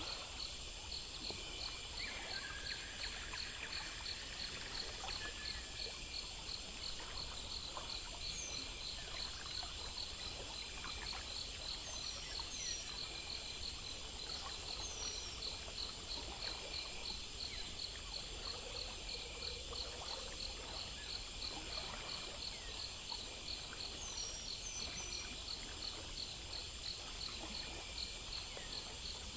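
Crickets and other insects chirping in steady, evenly repeating pulses over a faint trickle of water, with a few short falling chirps now and then.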